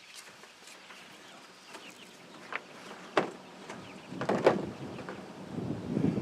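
Chickens clucking, with a few short sharp sounds in the middle. Wind buffets the microphone near the end.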